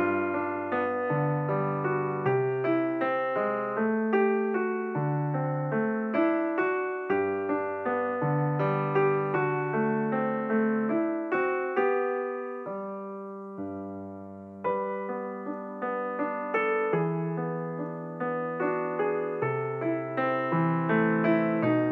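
Background solo piano music playing a gentle melody over held bass notes. It thins out and softens from about twelve seconds in, then picks up again a couple of seconds later.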